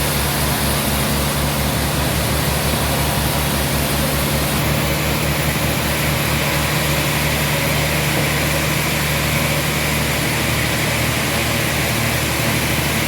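Sawmill machinery running: a steady, unbroken engine drone with a low pulsing hum.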